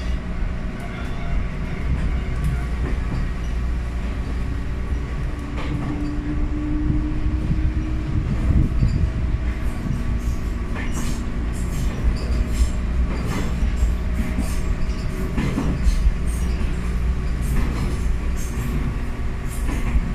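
Interior running sound of a Ryutetsu 5000 series electric commuter car (ex-Seibu New 101 series) under way: a steady low rumble of wheels on rail with scattered clicks from rail joints, more frequent in the second half.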